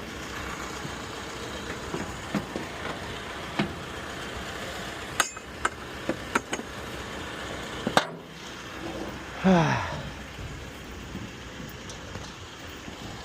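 Scattered sharp knocks and clinks of hard objects being handled, over a steady vehicle hum, with a brief sound falling in pitch about nine and a half seconds in.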